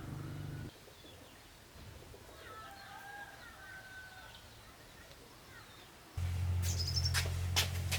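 Faint bird chirping in a quiet stretch, framed by a steady low hum that cuts off just under a second in and starts again about six seconds in, with sharp clicks over it.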